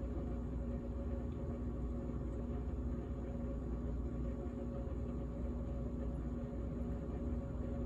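GE GTH18XCTZRBB refrigerator running: a steady hum with several fixed tones over a low rumble.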